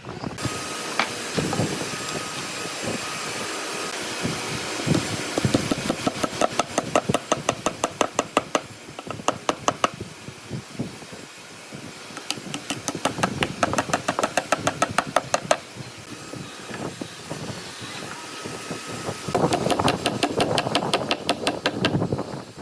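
Rapid series of sharp knocks, about five a second, in two long runs, over a steady mechanical noise.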